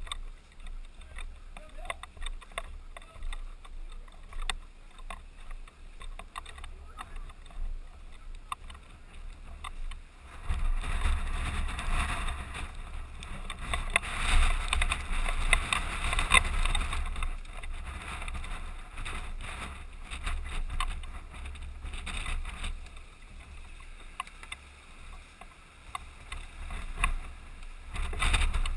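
Rustling, rubbing and irregular knocks of a gun-mounted camera and its airsoft gun being carried, with a louder stretch of rubbing and scuffing from about ten seconds in that lasts several seconds.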